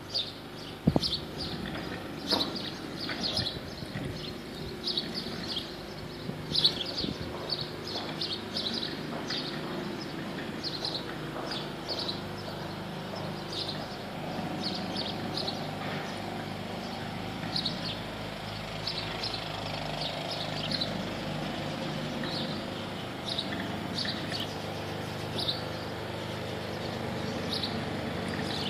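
Small birds chirping in short, repeated calls over a steady low background rumble, with a few sharp knocks in the first several seconds.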